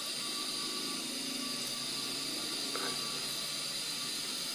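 Steady hiss of the gas burner heating the boiler of a toy steam engine, while it is still coming up to steam.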